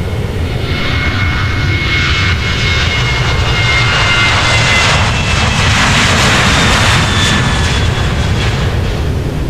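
Airliner's engines passing close by: a loud rushing noise with high whining tones that slowly fall in pitch, building to a peak and then easing off.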